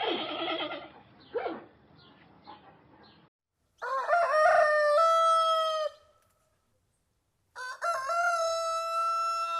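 Rooster crowing twice, each crow about two seconds long, rising at the start and then held on a steady note. Shorter, rougher calls come before the crows.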